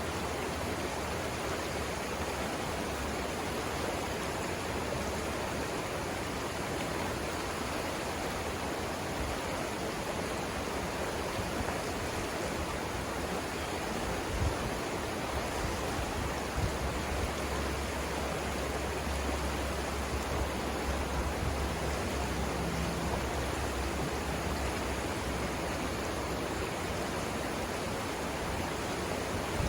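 Steady rushing of the Savannah River's flowing water, an even hiss with no let-up. About halfway through, a low rumble comes in underneath it.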